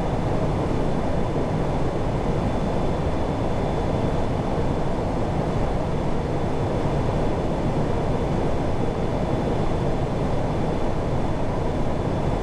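Airbus A340-600 flight deck noise on approach: a steady rush of airflow and air conditioning, with a faint high steady tone running through it.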